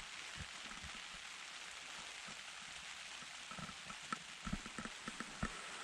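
Rain pattering on a tent: a steady hiss of rain, with single heavier drops tapping and thudding on the fabric more and more often in the second half.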